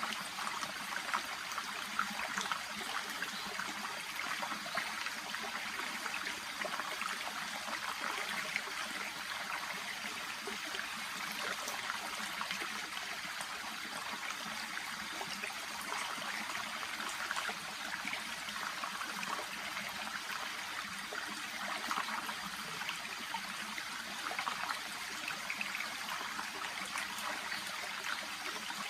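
Small shallow brook babbling and trickling steadily, a constant wash of water with many small splashes and ripples.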